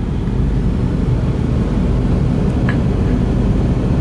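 Steady low rumble inside a car's cabin going through an automatic car wash, with a faint tick near the middle.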